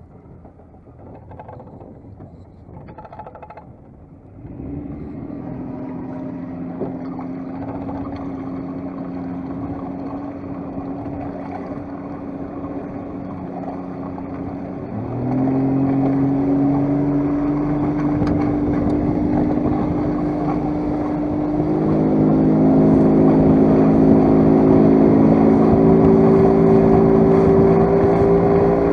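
Small fishing boat's engine running after a few faint knocks; it comes in about four seconds in. It is opened up in two steps, about fifteen and twenty-two seconds in, its pitch creeping higher near the end.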